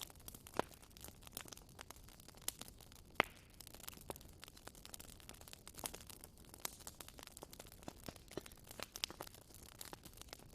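Campfire crackling: wood burning with frequent small, irregular pops and snaps over a faint hiss, a few of them louder, about half a second in and about three seconds in.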